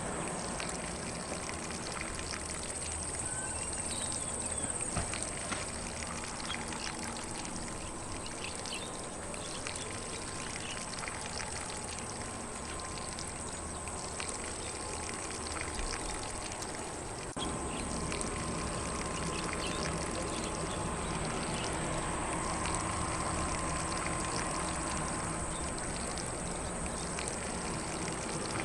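Lawn sprinkler spraying water steadily across grass, an even wash of spray with no ticking rhythm.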